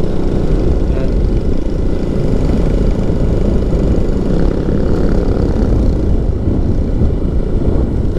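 Motorcycle running steadily on the move, with a heavy rush of wind noise buffeting the rider's microphone.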